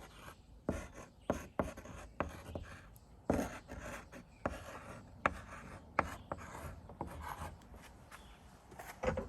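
Someone writing by hand: a run of short, irregular scratching strokes with light taps, as a pen moves across the surface.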